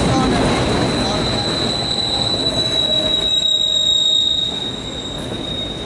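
Empty autorack cars of a CSX freight train rolling past with a steady high-pitched squeal from the wheels over the rumble of the train.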